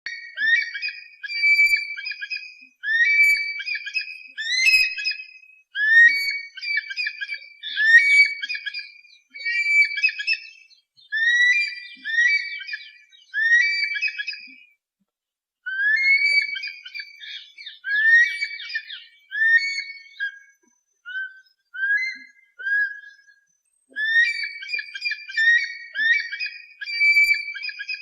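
Eagle calls: a repeated series of shrill, whistled screams, each phrase opening with a rising note, coming every second or two with a short pause about halfway through.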